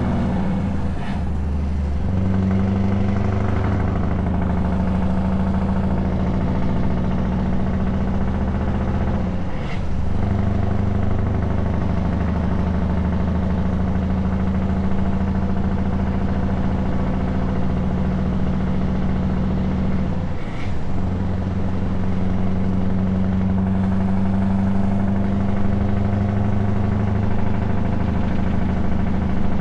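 Scania S truck's engine running through open exhaust pipes on the move, a steady low drone. The note breaks briefly three times, about one, ten and twenty-one seconds in.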